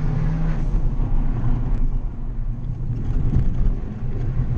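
Fiat 500's engine running hard, heard from inside the cabin along with tyre and road noise. The engine note dips briefly about two seconds in and again near the end.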